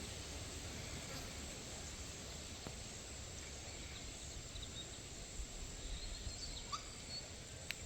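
Faint outdoor ambience: a steady hiss of background noise, with a few faint bird chirps about two-thirds of the way through.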